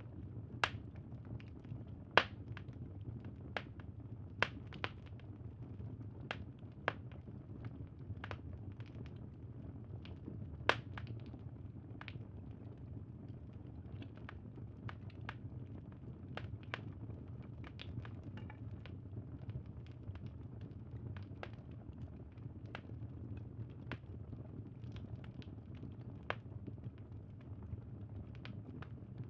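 Wood fire crackling: irregular sharp pops and snaps, a few louder ones in the first eleven seconds, over a steady low rumble.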